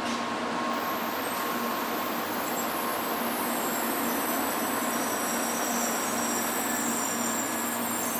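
N700 series Shinkansen train gliding into the station: a steady rushing hiss of the wheels on the rails, with several thin high whines that drift slightly down in pitch as it slows to stop.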